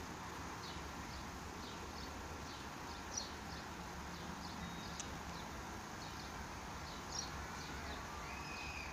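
Small birds chirping, short high chirps every fraction of a second with a couple of louder ones, over a steady low background hum.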